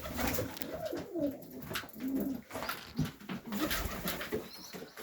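Several domestic highflyer pigeons cooing, the coos overlapping, with scattered short clicks and rustles from the birds moving about.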